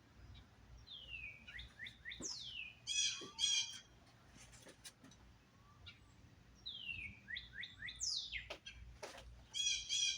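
A songbird singing the same phrase twice, about five seconds apart: sliding, falling whistles, then a quick downward sweep and a few loud buzzy notes. Scattered faint clicks and knocks are heard between the phrases.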